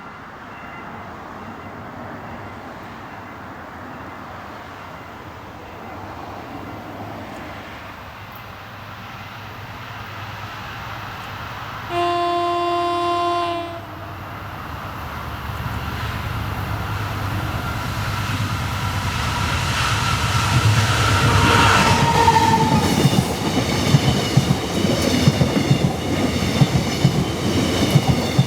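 A train hauled by a 7600-series diesel-electric locomotive approaches, sounding one horn blast of about two seconds about halfway through. The rumble of the engine and wheels then grows louder, ending in a rapid clatter of wheels over the rail joints as it passes.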